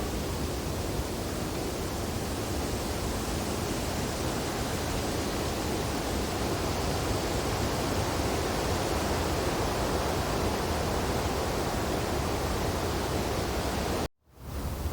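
Wind blowing through tree branches in a snowfall: a steady, even rushing noise. Near the end it cuts out completely for a split second and then fades back in.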